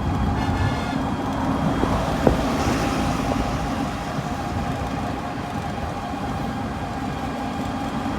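Steady road and traffic noise heard from a moving pedicab: a low rumble with a faint steady hum, easing slightly about halfway through.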